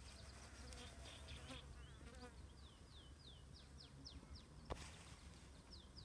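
Faint bird song: a run of short, quick notes, each sliding down in pitch, heard twice over a low steady rumble, with a single sharp click about halfway through.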